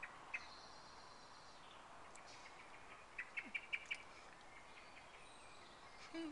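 Faint bird chirps over a quiet background, with a quick run of about five chirps a few seconds in.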